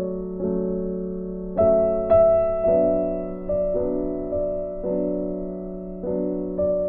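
Background music: a keyboard playing slow, held piano chords, a new chord or note struck about once a second and left ringing.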